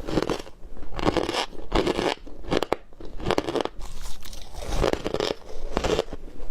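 Ice being bitten and chewed, a steady run of crunches, several a second.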